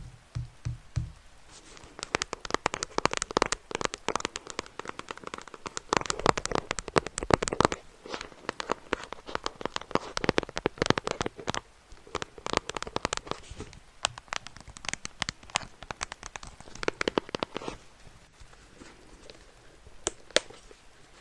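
Crinkling and crackling from something handled close to the microphone as an ASMR trigger, in dense quick runs of fine clicks with short pauses. It thins to a few scattered crackles near the end.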